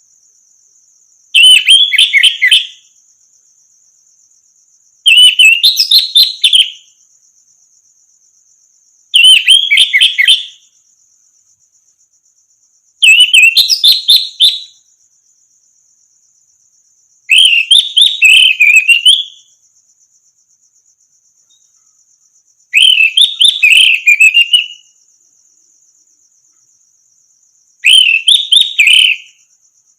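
An orange-headed thrush singing: seven short, loud, varied song phrases, each lasting under two seconds and coming every four to five seconds. A faint steady high-pitched whine runs underneath throughout.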